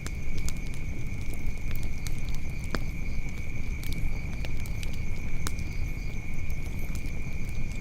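Wood fire crackling, with short sharp pops at irregular intervals over a steady low rumble. Insects keep up a constant high-pitched chirring in the background.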